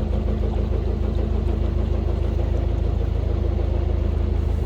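Narrowboat engine running steadily under way: a low drone with an even beat.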